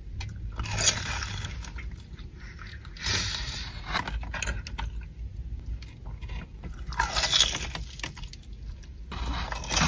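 Close-up crunching and chewing of a breaded, fried Nashville hot mozzarella stick: a few loud crunchy bites with quieter chewing between them.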